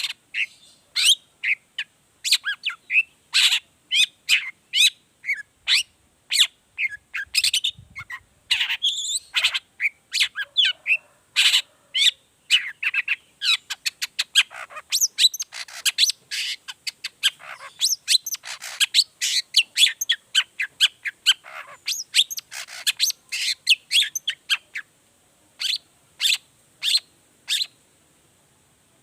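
Long-tailed shrike (cendet) singing vigorously: a rapid, varied run of short chattering and whistled notes. Near the end it thins to single notes about one a second.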